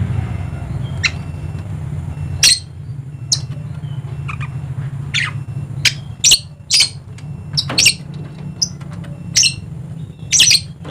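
Dusky lory giving about a dozen short, sharp squawks at irregular intervals, over a steady low hum.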